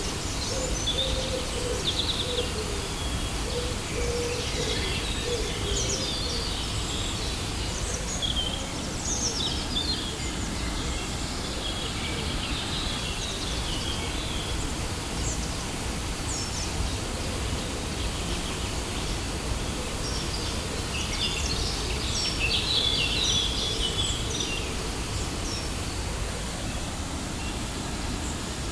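Waterfall rushing steadily, with songbirds chirping and calling over it throughout. A lower, wavering bird call runs through the first several seconds.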